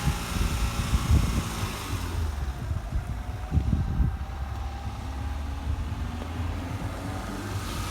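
Road traffic: car engines running as vehicles move past, with a couple of louder low surges.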